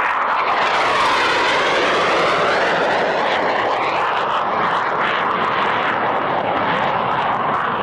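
SEPECAT Jaguar's twin Adour turbofan jet engines making a fast low flypast. The jet noise is loud and steady, with a sweeping, phasing tone that shifts as the aircraft passes by.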